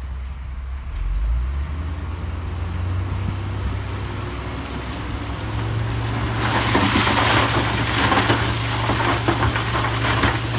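A heavy diesel engine is running and its pitch steps up after about a second. From about six seconds in, a loud, continuous clatter and rush of stone and rock joins it.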